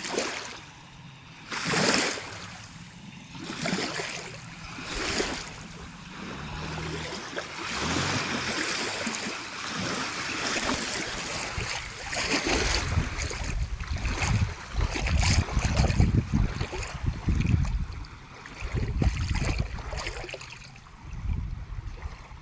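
Inflatable boat under way behind a Selva Naxos 15 outboard: water splashing and rushing along the hull, with a low engine hum in the first few seconds. Wind buffets the microphone heavily in the second half.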